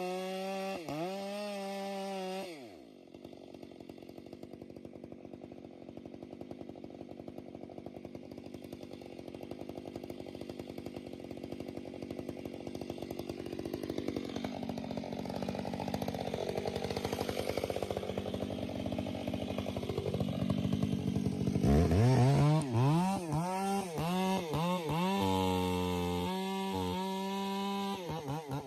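Chainsaw engine running at high revs, then dropping suddenly in pitch and level about two and a half seconds in to a low, rapid putter that slowly grows louder. From about three-quarters of the way through it is revved up and down again and again.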